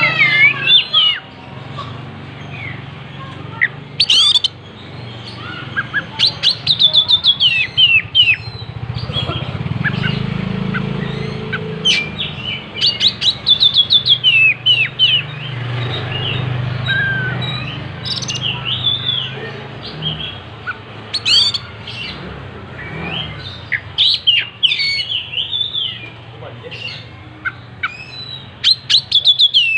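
Oriental magpie-robin singing: repeated bursts of rapid, high chirps and whistles every second or two, with a low steady murmur underneath.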